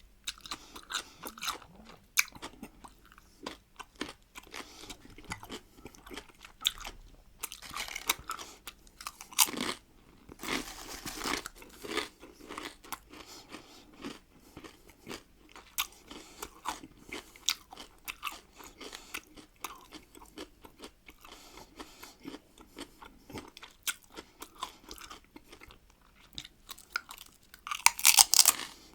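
Close-miked biting and chewing of salted cucumbers: a steady run of crunches with louder bites now and then, the loudest near the end.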